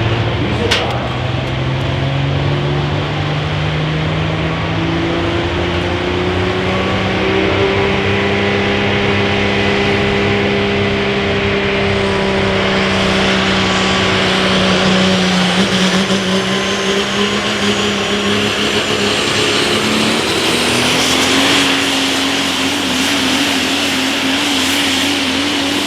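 Multi-turbocharged super stock diesel pulling truck under load, its engine revs climbing and holding, then stepping up again about two-thirds of the way through, with a high turbo whine rising slowly over the second half.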